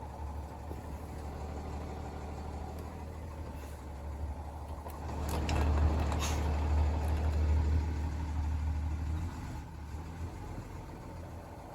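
Diesel engine of a 2015 Freightliner gravel truck running at a steady low idle. It grows louder for a few seconds in the middle, with a few sharp ticks and a short hiss, then settles back.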